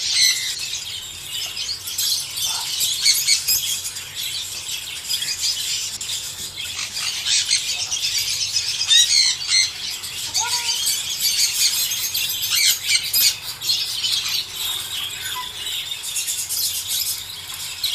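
A flock of budgerigars chattering, with many quick overlapping chirps and squawks running without a break.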